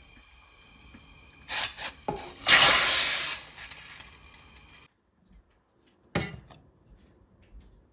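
Kitchen sounds: a few clicks, then a loud hissing rush lasting a couple of seconds that fades out, and a single sharp knock later on.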